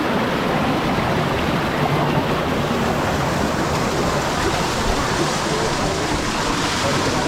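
Rushing water of river rapids, a steady, even wash of noise.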